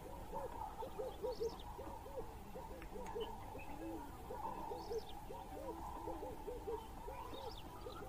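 Birds calling with short, low hooting notes repeated several times a second in little runs. Faint high chirps from other birds come in now and then.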